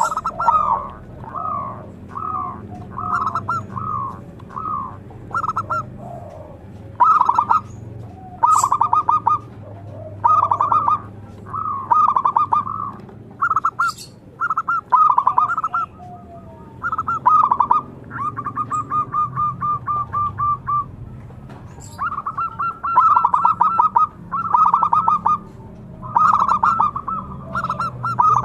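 Zebra dove (perkutut) cooing over and over in short phrases of rapid, stuttering pulsed notes, with brief pauses between phrases; one phrase about two thirds of the way through is a longer, even trill.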